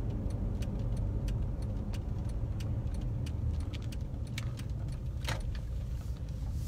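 Steady low rumble with scattered light clicks, and a louder click about five seconds in.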